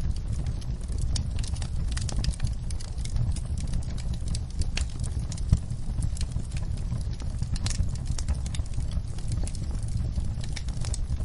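Wood fire in a fireplace crackling, with many sharp pops and snaps over a steady low rumble; one louder pop about halfway through.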